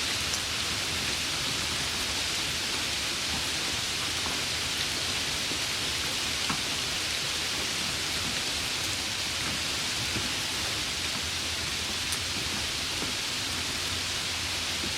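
Steady rain, an even hiss of rainfall with a few faint separate drops ticking through it.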